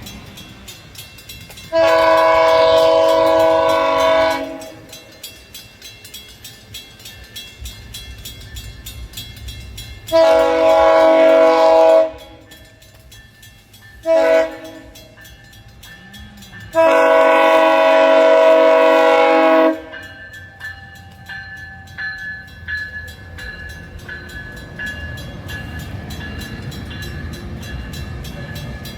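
Locomotive air horn blowing the grade-crossing signal: two long blasts, a short one and a final long one. The horn has several chime notes sounding together over the low rumble of the train running by, which continues after the last blast.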